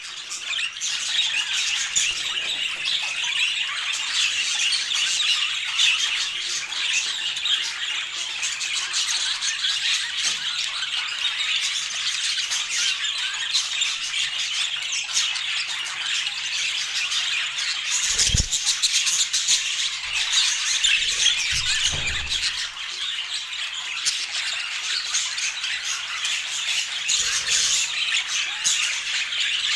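Budgerigars chattering and squawking continuously, a dense mix of high warbles and squawks, with a few dull low thumps about two-thirds of the way in.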